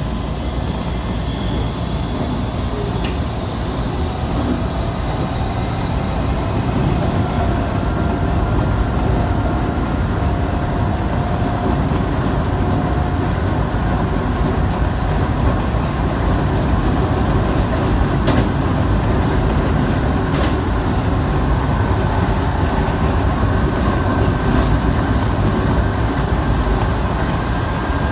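Running noise heard from inside a Shibayama Railway 3500-series electric train car: a steady rumble of wheels on rail that grows a little louder after about six seconds, with faint thin whining tones above it.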